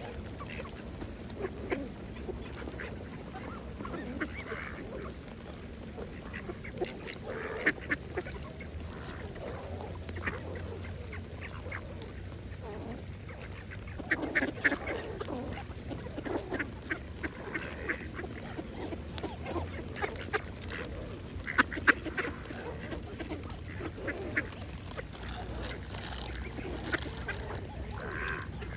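Mallard ducks feeding, with scattered quacks and low calls among many short clicks from their bills. The calls come in busier, louder clusters about halfway through and again later.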